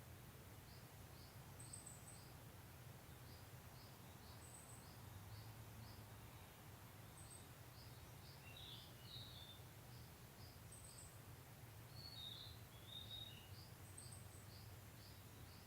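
Faint outdoor bird chirping: a regular series of short high chirps, with two brief twittering phrases about halfway through and a little later, over a steady low hum.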